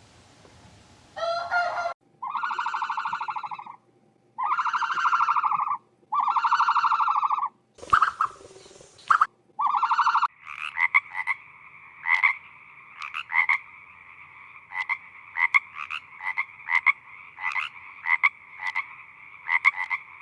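Frogs croaking: three long, buzzy calls of about a second and a half each, then a short hiss. From about ten seconds in, a steady trilling chorus with sharp clicks over it.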